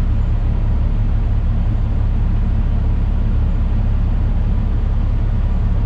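Peterbilt semi truck's diesel engine running with a steady low rumble.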